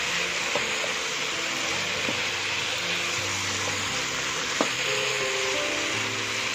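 Mini king oyster mushrooms and onions sizzling in a nonstick wok as they are stir-fried with a wooden spatula, with a sharp tap of the spatula about four and a half seconds in. Soft background music plays under it.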